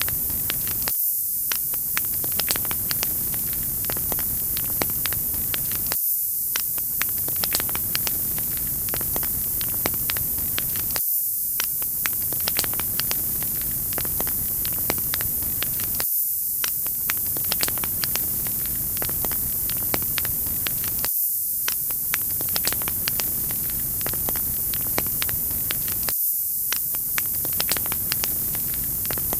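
Crackling wood fire: frequent sharp pops and snaps over a steady hiss, the pattern repeating about every five seconds as a loop.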